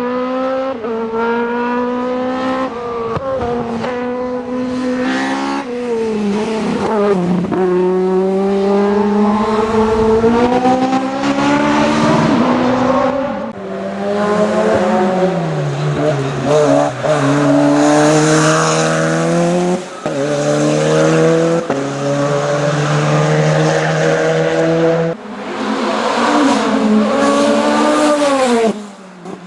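Hill-climb racing car engines under hard acceleration. The revs climb and drop sharply again and again at the gear changes, with several sudden cuts between passes.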